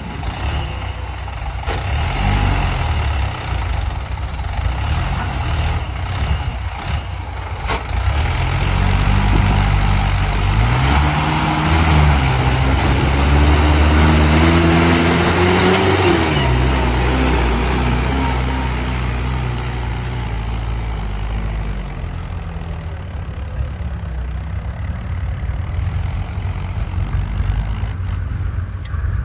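Heavy diesel engine of earth-moving or farm machinery running. It revs up from about nine seconds in, its pitch climbing steadily under load until it drops back sharply at about sixteen seconds, then settles into a steady run.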